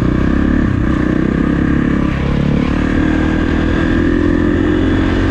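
Kawasaki KX450 dirt bike's single-cylinder four-stroke engine running at a fairly steady speed.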